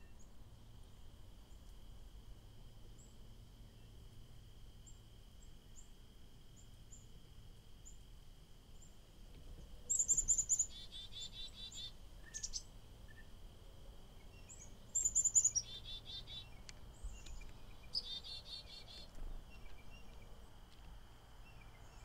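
Small wild songbirds calling in three short bursts of chirps, each a high note followed by a quick run of lower notes, over a steady high-pitched tone.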